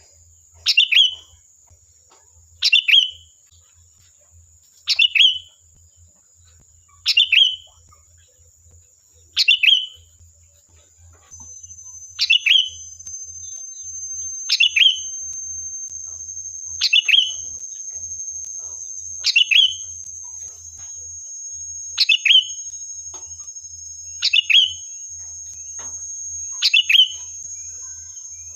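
Sooty-headed bulbul (kutilang) giving the same short, loud chirping call about every two seconds, played as a lure to draw other bulbuls to answer. From about a third of the way in, a steady high-pitched whine runs beneath the calls.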